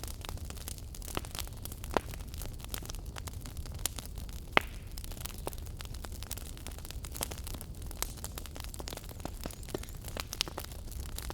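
Wood fire in a fireplace crackling, with frequent small irregular pops and one sharper, louder pop about four and a half seconds in, over a steady low rumble.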